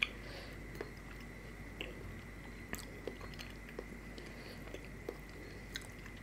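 A person chewing a spoonful of dahi vada, soft and wet, with faint scattered mouth clicks and a sharper click at the start. A faint steady high tone sits underneath.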